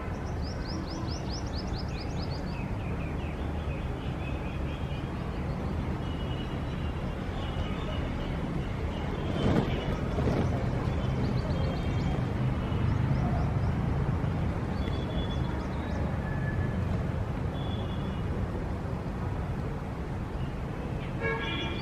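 Steady city traffic rumble with small birds chirping over it in quick runs of high notes, and a louder rush of passing traffic about halfway through.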